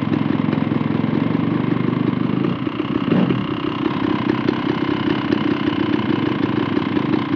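Dirt bike engine idling steadily with fast, even firing pulses, its note shifting briefly about three seconds in.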